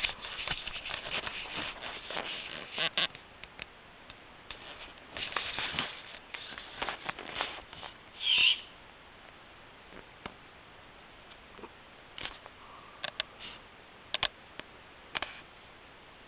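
Barn owl calling: a run of breathy, hissing calls in the first half, a short louder call about eight seconds in, then a few scattered clicks.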